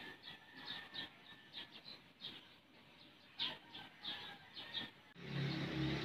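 Faint small birds chirping in short, scattered calls. About five seconds in, this gives way to a steady low hum with a hiss under it.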